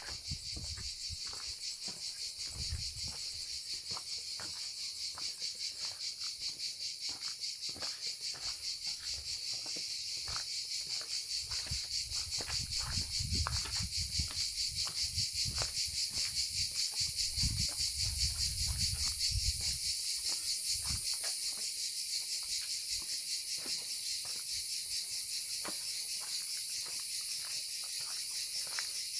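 A dense chorus of insects chirring in fast, even pulses. A low rumble comes and goes in the middle stretch.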